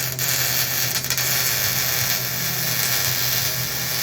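Welder tacking steel mounting tabs onto a truck frame: a steady, unbroken hiss with an underlying hum that starts and cuts off abruptly.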